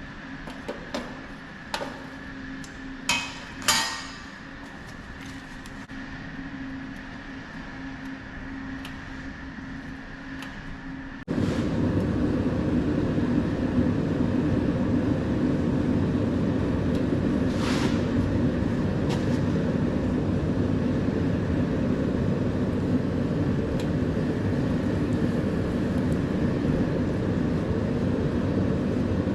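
A steady hum with a few sharp clicks, then, about 11 seconds in, an abrupt switch to a loud, steady rushing roar of a forge running, heating a blade for thermocycling before the quench.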